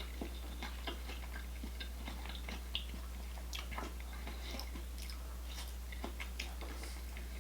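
Close-miked chewing and wet mouth smacks of someone eating a garlic-butter seafood boil, with scattered small clicks, over a steady low hum.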